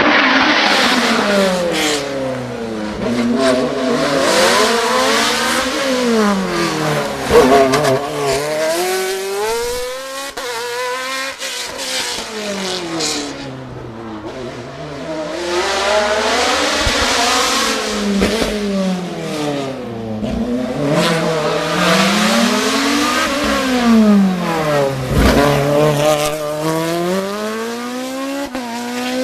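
Racing car engine climbing a mountain hill-climb road at racing speed. The revs rise and fall again and again every few seconds as it accelerates, lifts off and brakes for the bends. It fades somewhat around the middle and grows louder again.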